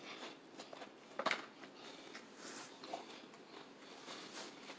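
Close-up chewing of crunchy fried chicken, with small crackles of breading and one louder crunch a little over a second in.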